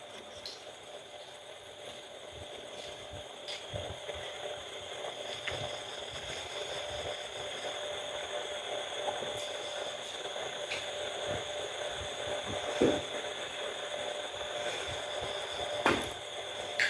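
Quiet eating sounds, with small clicks and soft knocks of chewing and of a utensil or hand at a plate, over a steady background hum with a faint high whine.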